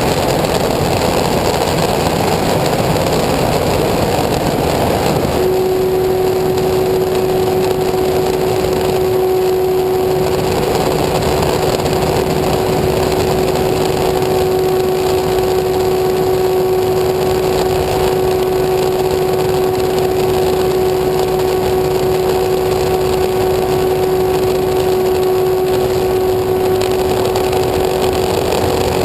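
An engine running continuously at a steady speed over a loud rushing noise. About five seconds in, a steady mid-pitched hum sets in and holds level.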